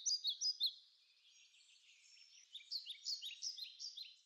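Several small birds chirping and singing at once: quick, high, falling notes crowding together, loudest in the first half second, thinning out, then a second run of chirps from about two and a half seconds in that fades away at the end.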